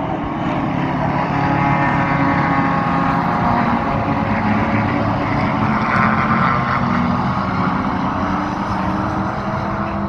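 A pack of racing cars accelerating past the track side just after a race start: several engines at high revs overlapping, pitches climbing through the gears. The sound swells between about two and seven seconds in, then eases as they move away.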